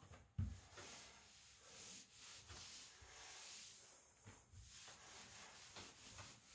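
Near silence: faint rustling and handling noise, with one soft bump about half a second in.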